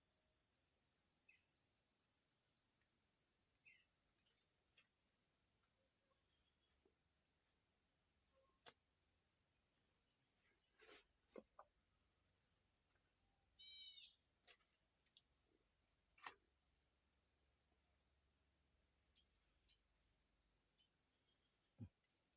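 Steady high-pitched chorus of insects, with a few faint clicks and a short run of chirps about fourteen seconds in.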